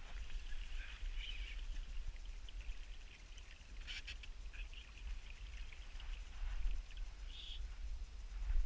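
Birds calling in short scattered bursts over a steady low rumble.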